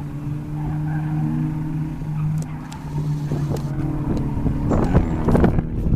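A motor vehicle's engine running at a steady note, turning rougher and louder with sharp noises just before the end.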